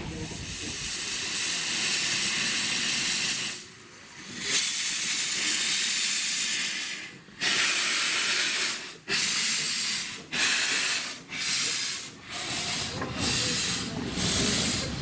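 Narrow-gauge steam locomotive letting off steam with a loud hiss: two long blasts, then a run of shorter bursts about a second apart.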